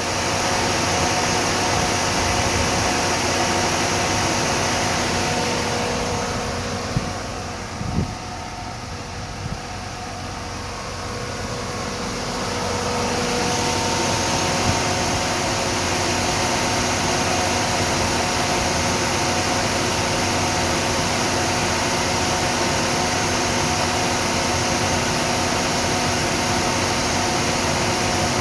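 Chevrolet 6.0-litre LQ9 V8 engine running steadily, with strong fan-like hiss over the engine's steady tones. It eases down for several seconds in the middle, with a couple of light clicks, then returns to its earlier level.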